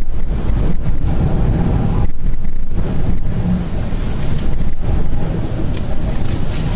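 Strong gusting wind buffeting the microphone, a loud, uneven rumble, with rough sea and surf beneath it.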